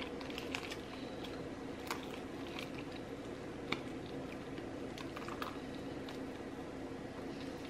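Close-up eating sounds of KFC fried chicken being chewed: scattered small wet clicks and squishes from the mouth, over a steady low hum.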